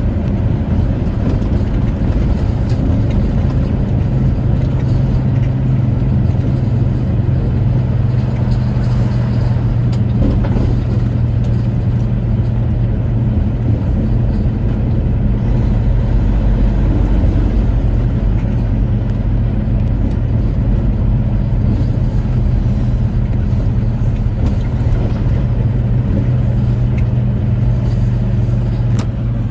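Semi truck's engine and road noise heard from inside the cab while driving, a steady low drone.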